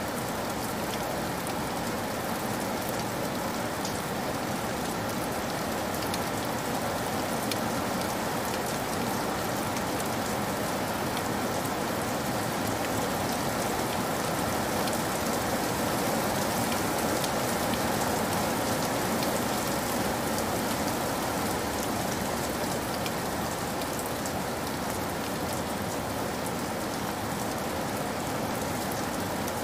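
Heavy rain falling steadily: an even hiss with countless fine drop impacts through it, swelling slightly midway.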